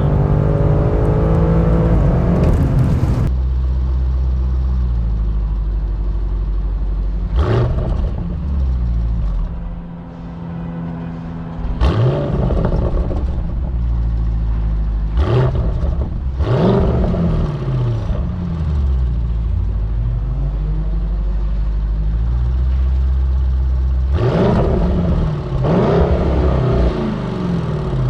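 Audi RS6 C8's twin-turbo V8 through an Akrapovic exhaust, blipped up in several rev sweeps that fall back to a steady idle in between. The sweeps go past the factory 3,000 rpm soft limit, which the MTM engine software has removed.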